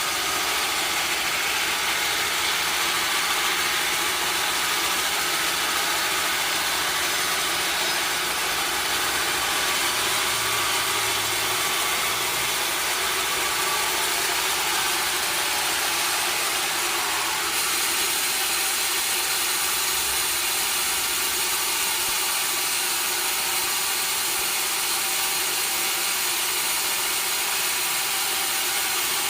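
Sawmill machinery running steadily, an even mechanical noise with no distinct cutting strokes, changing slightly in tone a little past halfway.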